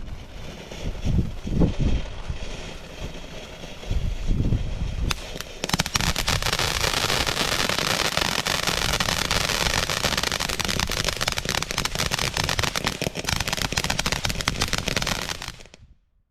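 Consumer fireworks battery going off: a few low thumps, then a long dense run of rapid crackling reports lasting about ten seconds that fades out near the end.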